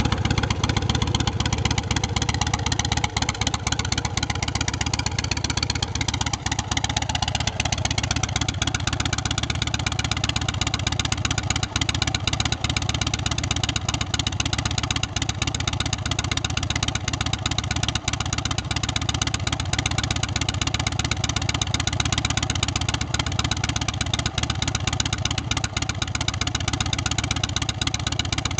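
A Big Dog K9 chopper's carbureted 117 cubic inch S&S V-twin running through a Vance & Hines exhaust. The note shifts over the first several seconds, then holds steady.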